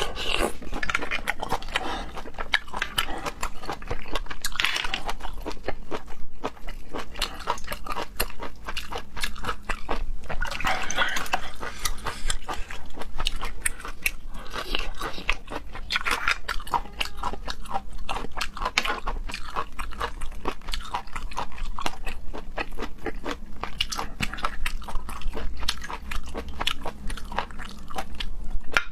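Close-miked chewing and crunching of seafood, a dense, continuous run of small wet clicks and crackles.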